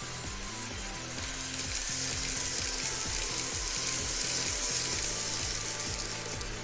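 N-scale model train running past: a fine clattering whir of motor and wheels on track that builds about a second and a half in, is loudest through the middle and fades near the end, over background music.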